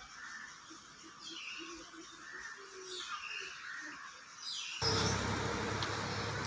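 Birds calling, with a few falling whistled notes and short chirps. About five seconds in, the sound cuts abruptly to a louder steady rushing noise.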